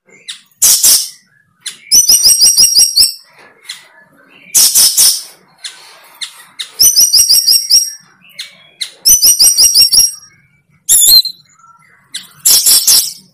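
A bird calling loudly and close: short harsh rasping calls alternating with runs of rapid chirps, each run about a second long, repeated several times.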